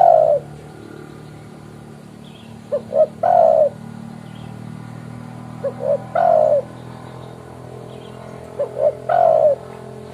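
Spotted dove (tekukur) cooing its rival-calling song: three phrases about three seconds apart, each two short coos followed by a longer falling coo, with the end of a fourth phrase at the very start. A steady low hum runs underneath.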